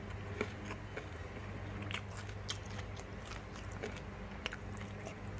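Someone chewing food close to the microphone: scattered small crunches and mouth clicks over a steady low hum.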